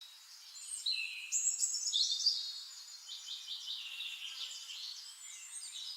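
Small birds chirping and trilling, high-pitched, with quick rising and falling calls that are loudest in the first couple of seconds.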